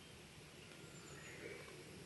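Wood fire burning quietly in a Picogrill 498 firepit, a faint steady hiss, with a few faint high chirps about the middle.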